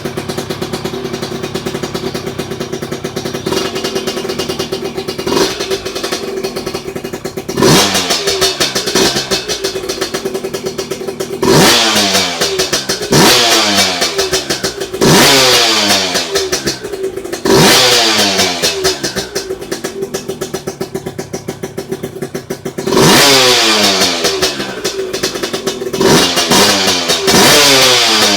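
Motorcycle engine idling steadily, then revved again and again, about seven quick blips that each rise sharply and fall back to idle.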